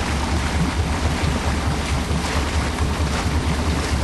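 5 HP Nissan dinghy outboard running steadily, a fast-pulsing low rumble, with wind buffeting the microphone and water noise.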